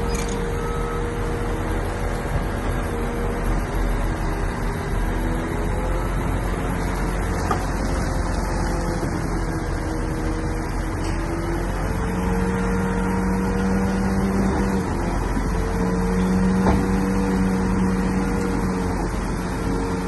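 Diesel engine of a Shantui bulldozer running under load, a steady drone with a whining note that grows stronger about twelve seconds in and again a few seconds later.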